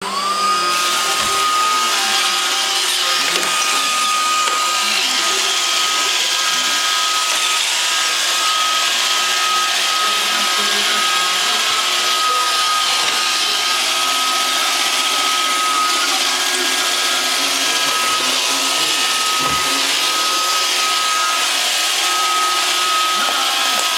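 Roomba robot vacuum cleaner running: its motor spins up with a quickly rising whine right at the start, then holds a steady high whine over a constant suction hiss. Two faint low thumps, one near the start and one near the end.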